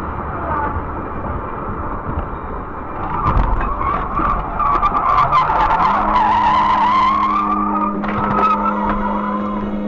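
Car tyres squealing in a long skid: a wavering screech that sets in about three seconds in and dies away near the end, over road noise. A steady low hum joins about halfway through.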